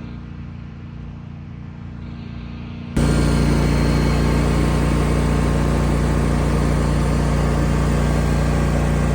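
Motor vehicle engine running at a steady speed, a constant drone that jumps sharply louder about three seconds in.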